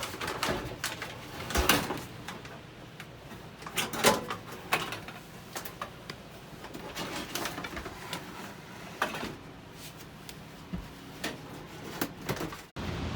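Irregular knocks, clunks and scraping of sheet metal as an RV furnace's metal housing is handled and pushed into its compartment.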